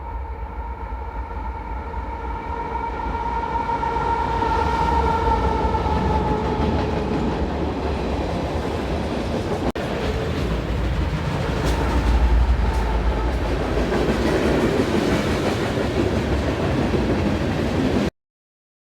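Diesel-hauled freight train passing: a multi-tone air horn sounds for several seconds, dropping slightly in pitch, over a heavy locomotive rumble. Then the train's cars roll by with a steady rumble and wheel clicks, and the sound cuts off abruptly near the end.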